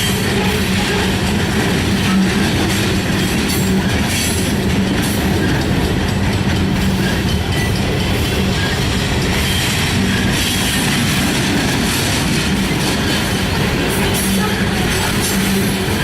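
Freight train rolling past at close range: a steady rumble of wheels on rail with a continuous run of faint clicks as the cars pass over rail joints.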